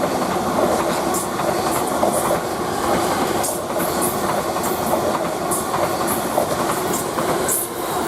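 Greater Anglia Class 745 Stadler FLIRT electric multiple unit passing at speed without stopping: a steady rush of wheel and rail noise with a constant hum and a run of sharp clicks as the wheels cross rail joints.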